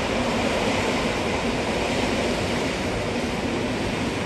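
Steady rumble and rush of an approaching electric passenger train on the main line, with a faint steady hum under the noise.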